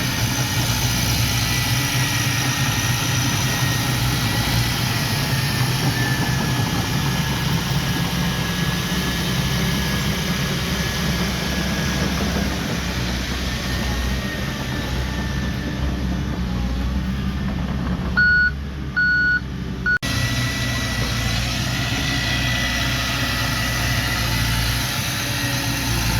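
Heavy diesel earthmoving machinery running steadily, with a high whine over the engine. About 18 seconds in, a reversing alarm sounds a few short beeps.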